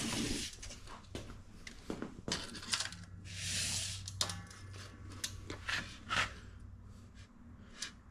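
Scattered light metallic clicks, taps and scrapes of tools and steel being handled while a welded steel frame is checked for square, with one brief rasping sweep about three and a half seconds in. A low steady hum runs underneath.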